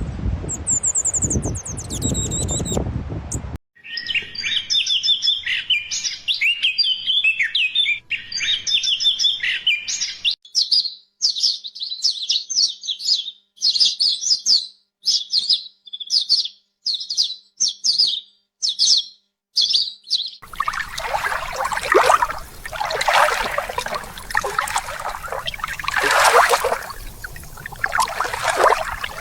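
Songbirds singing and calling: first a varied, warbling song, then a string of short, sharp chirps repeated about one or two a second, then busier chirping over a rushing background noise near the end.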